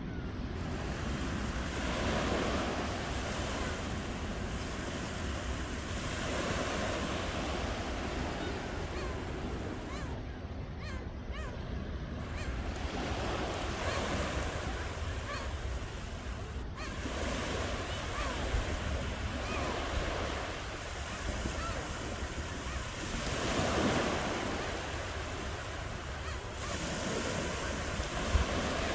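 Ocean waves washing onto a shore, the surf swelling and falling back every several seconds over a steady low rumble.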